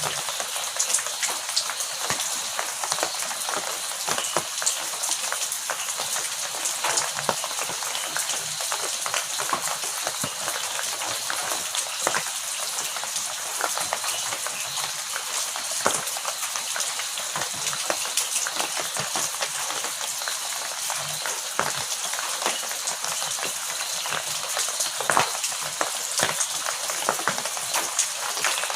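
Heavy rain falling steadily: an even hiss full of quick, sharp drop impacts.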